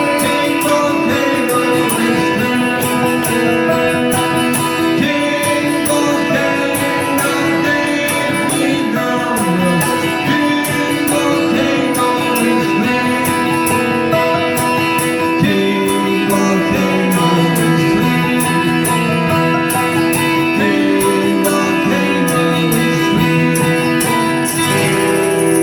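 Live band music recorded from the audience: guitar-led playing with sustained chords and intermittent singing.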